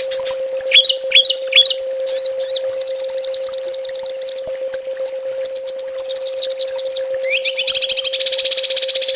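Small songbird singing rapid-fire trills ('tembakan'): fast runs of repeated high notes, with a few short upward-sweeping whistles about a second in. A steady low hum runs underneath.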